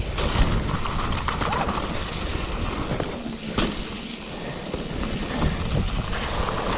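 Wind rushing over the microphone with scattered knocks and rattles, loudest about half a second in and again a little past halfway.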